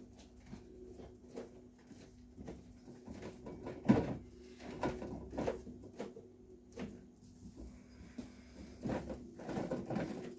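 Irregular knocks and clicks of hands working on a refrigerator door and its gasket, with one sharper knock about four seconds in, over a steady low hum.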